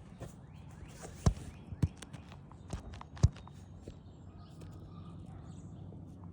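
Footsteps and scuffs on an asphalt architectural-shingle roof, with four sharp knocks between about a second and three seconds in.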